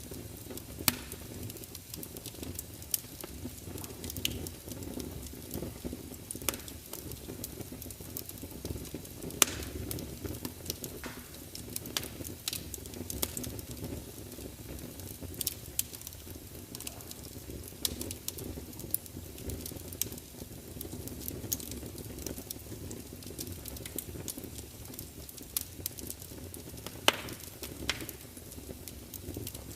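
Log fire in a large open fireplace crackling, with a steady low rumble of flames and frequent sharp irregular pops and snaps, a few of them louder than the rest.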